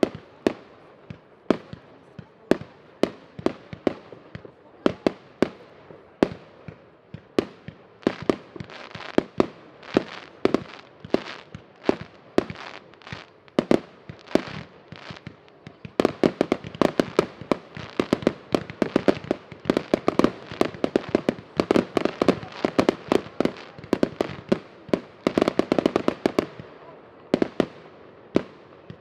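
Fireworks going off: a rapid series of sharp bangs, much denser about halfway through, then thinning out near the end.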